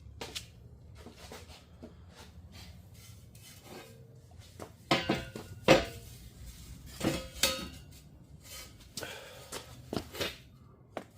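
Metal exhaust pipes and mufflers clanking and knocking as the exhaust is handled and lifted: a string of irregular sharp clanks with a brief metallic ring, loudest about five to six seconds in.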